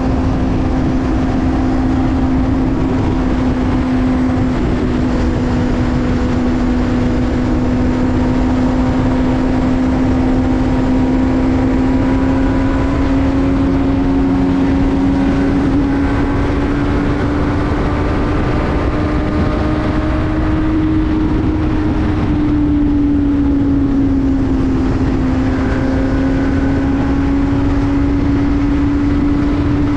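Benelli TNT600i inline-four motorcycle engine running at a steady cruising pitch under a constant rush of noise. It climbs a little past the middle, eases back a couple of seconds later, then holds steady again.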